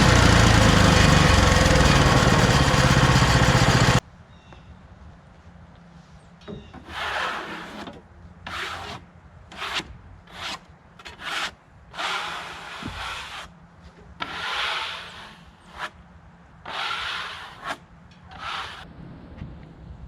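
Hudson HFE30 bandsaw sawmill running loudly, stopping abruptly about four seconds in. Then about ten short, irregularly spaced rubbing strokes across wood.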